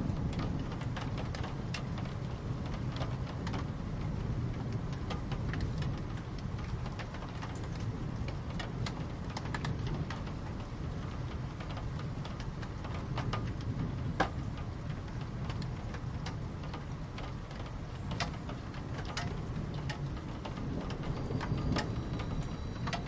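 Steady rain with a low rumble underneath and scattered sharp drops ticking on a surface.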